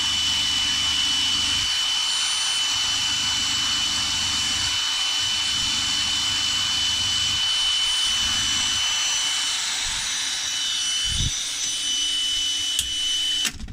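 Cordless drill with a small wire brush wheel, clamped and running steadily at full speed, scouring grime off a steel bolt: a constant high whine over a wide hiss. It stops abruptly near the end.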